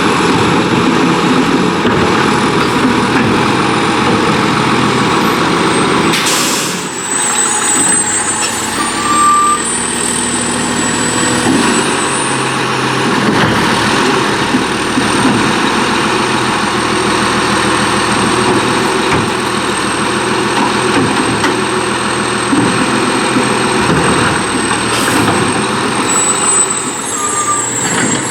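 McNeilus AFE front-loading garbage truck working close by, its diesel engine running loudly and steadily. A short hiss of air comes about six and a half seconds in.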